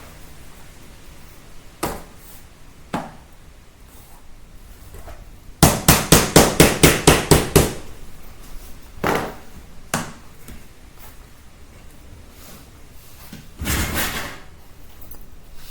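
Floor tiles being tapped into place with a hammer: a few single knocks, then a quick run of about ten taps at roughly five a second, and a brief rougher noise near the end.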